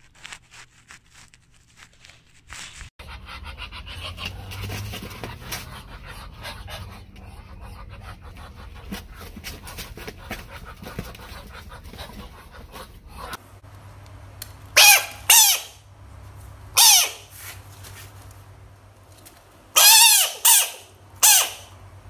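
A group of large frogs giving six loud, squeaky calls, in twos and singles from about fifteen seconds in. Each call arches up and then down in pitch.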